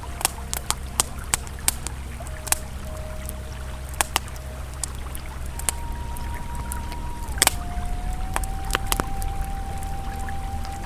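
Campfire crackling with scattered sharp pops over the steady rush of a flowing river. A soft held ambient tone sits underneath and steps to a new pitch a couple of times.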